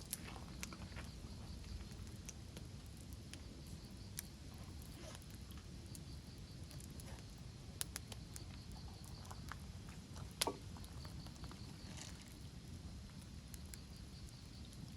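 Wood campfire crackling: scattered small snaps and pops over a low steady rumble, with a couple of louder snaps near the eight-second mark and the loudest pop about ten and a half seconds in.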